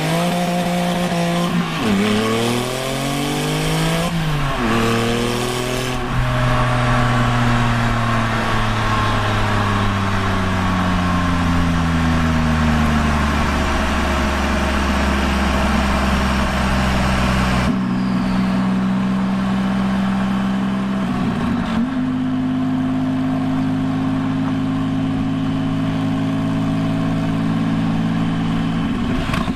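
Straight-piped 2001 Porsche 996 Turbo's twin-turbo 3.6-litre flat-six pulling hard, its revs climbing quickly twice with a gear change between, then falling steadily as the car slows off the throttle and settling to a steady cruise.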